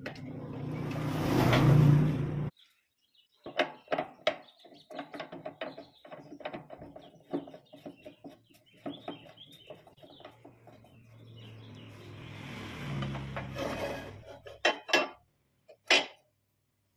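Homemade wood lathe running briefly with a low hum and cutting hiss, which cuts off suddenly, then many light clicks and knocks of wooden pieces and tools being handled. The lathe hum swells again for a couple of seconds near the end, followed by a few sharper knocks.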